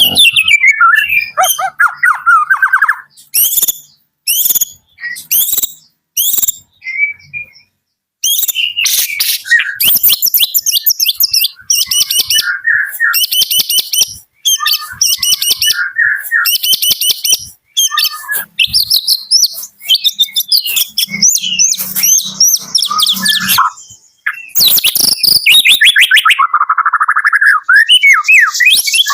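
White-rumped shama (murai batu Medan) singing: varied phrases of high, rapid notes and fast repeated trills. It gives a few separate sharp notes with pauses early on, then long runs of trilling with short breaks.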